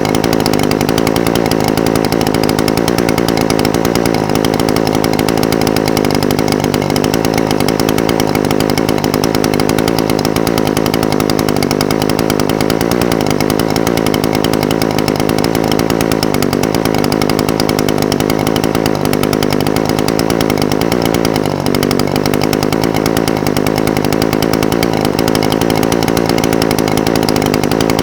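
Echo SRM-420TES brush cutter's two-stroke engine idling steadily, its pitch wavering slightly.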